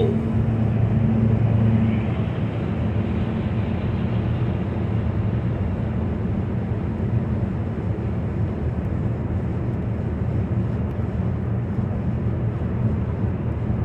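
Steady road and engine noise inside a moving car's cabin: a low hum over tyre rumble, a little louder for the first couple of seconds, then even.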